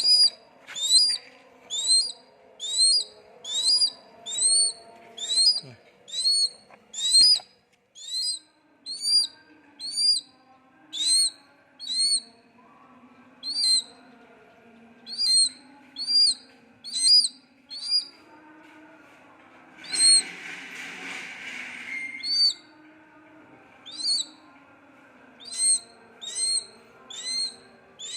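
A bird calling over and over: short, sharp, high-pitched notes, about two a second. The calls break off for a few seconds past the middle, where there is a brief hiss, then start again.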